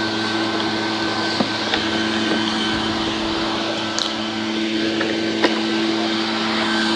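A motor running steadily with a constant hum, under soft brush scrubbing on a dirt bike's plastics and a few light taps.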